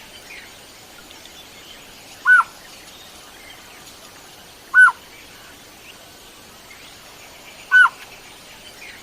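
Blue-faced malkoha (small green-billed malkoha) calling: three short, clear notes a few seconds apart, each a quick rise and fall in pitch.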